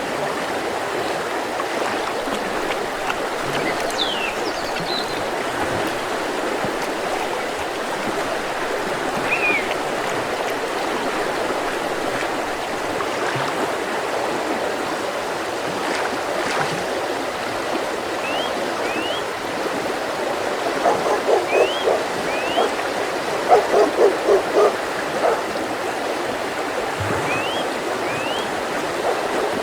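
Mountain river flowing steadily over rocks, with a run of louder gurgling pulses between about 21 and 25 seconds. Songbirds chirp over it now and then, with pairs of quick rising chirps three times in the second half.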